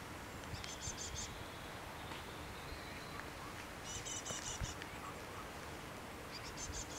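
A small bird singing short, high trilling phrases three times, over faint steady outdoor background noise.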